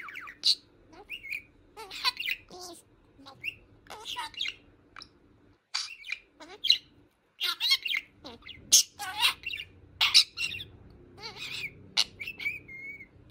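Budgerigar (budgie) chattering: a quick string of short chirps, squawks and warbled notes in bursts, with a wavering whistled note near the end.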